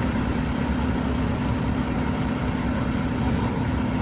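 Heavy diesel engine running steadily, its sound concentrated in the low end with no change in speed.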